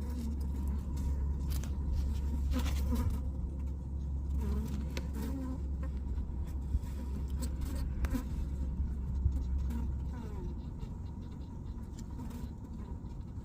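Honeybees buzzing around an opened hive, over a steady low rumble that eases off about ten seconds in. Scattered light clicks and knocks run through it.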